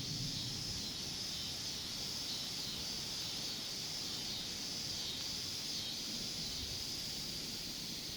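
Thunderstorm lull: a steady, high-pitched chorus of insects over a low, uneven rumble as the last thunderclap dies away.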